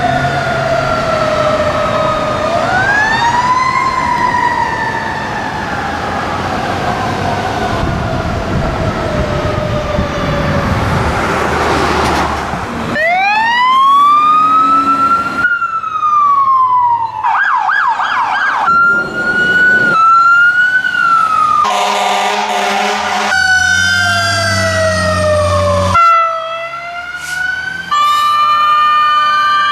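Fire apparatus sirens passing: a mechanical siren, which the tags name as a Federal Q, winds up and then coasts slowly down over several seconds above the rumble of the trucks. After that come electronic siren wails and a rapid yelp, along with steady horn blasts, and near the end two sirens sound over each other.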